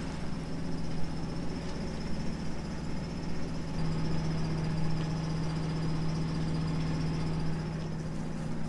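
A sailboat's inboard auxiliary engine running steadily at low speed, a constant hum that grows a little stronger about four seconds in.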